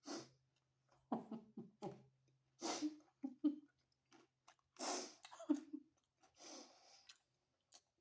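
Close-miked chewing of homemade pizza: wet mouth sounds in irregular short bursts.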